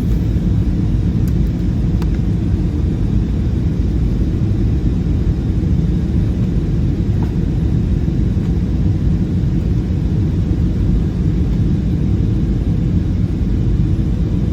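Steady low rumble inside the cabin of an Airbus A320-216, the engines and airframe heard from a rear window seat.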